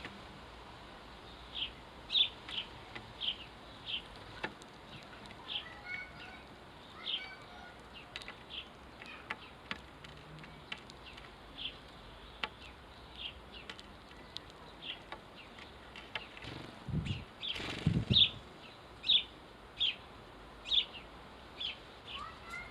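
House sparrows chirping: a long run of short, sharp cheeps, roughly two a second. About three-quarters of the way through, a brief, louder rustling burst cuts in.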